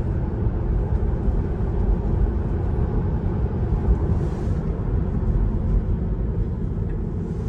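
Steady low road and tyre rumble heard inside the cabin of a Tesla electric car cruising at road speed, with no engine note.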